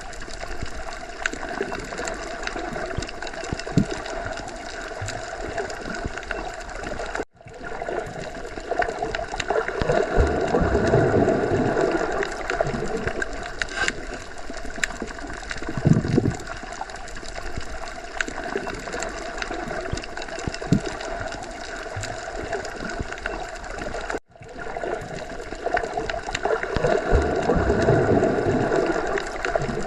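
Underwater ocean ambience: a continuous gurgling wash of water that swells every so often, with scattered small clicks. It cuts out abruptly for an instant twice, about 7 seconds in and again about 24 seconds in.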